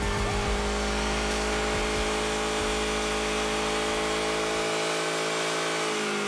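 Tofaş Şahin's engine held at high, steady revs while the rear tyres spin in a smoky burnout.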